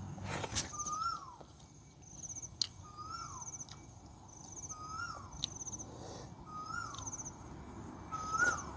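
A bird calling over and over, about every two seconds: each call a buzzy high trill and a whistled note that rises and then slides down. Scattered sharp clicks of eating with the hands come between the calls.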